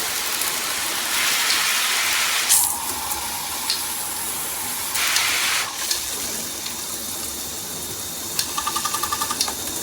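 Water spraying from a BOWGER high-pressure handheld shower head: a steady strong hiss that swells louder twice. A quick run of clicks comes near the end.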